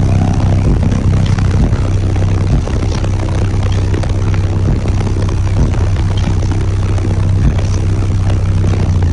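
A semi truck's high-powered bass sound system plays one very loud, steady low bass note, heavily distorted.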